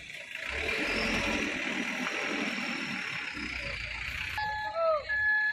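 Mitsubishi Fuso Canter dump truck running, a steady noisy engine sound. About four seconds in it cuts suddenly to a steady high tone with short repeated falling notes.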